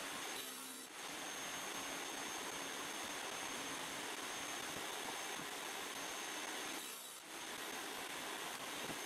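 Woodworking machinery running on alder boards: a steady rushing hiss that dips briefly twice.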